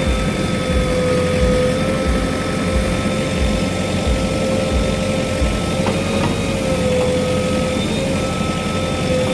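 JCB backhoe loader's diesel engine running steadily, with a steady high whine riding over the engine rumble.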